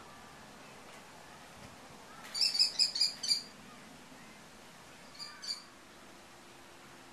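A bird calling: a quick run of about seven short, high-pitched calls a little over two seconds in, then two more a couple of seconds later.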